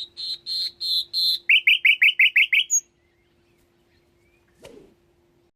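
A songbird singing one phrase: about seven clear repeated notes, then a quicker run of seven downward-sweeping notes, ending about three seconds in. A faint steady hum runs underneath, and a single click comes near the end.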